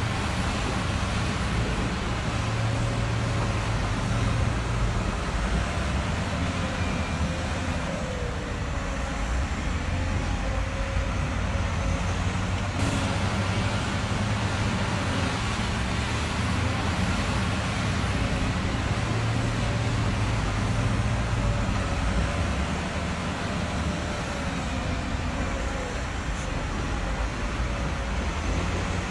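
A truck's engine running steadily, a low continuous drone with a broad rushing noise over it.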